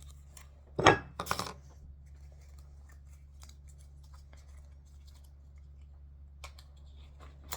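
Utensil mashing and scraping wet cat food in a small plastic tray: a sharp knock and a short clatter about a second in, then faint scattered scrapes and clicks.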